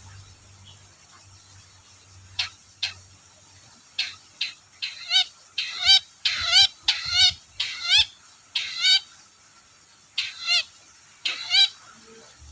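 Long-tailed shrike (cendet) calling: a run of short, harsh, chattering notes that starts a couple of seconds in and comes in quick bunches, with a short pause near the end.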